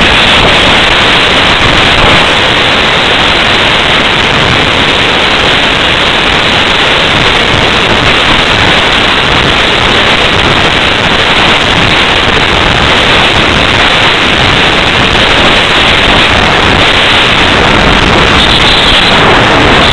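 Loud, steady wind noise rushing over the microphone of a Flycam1 camera riding on top of an unpowered radio-controlled slope-soaring glider in flight.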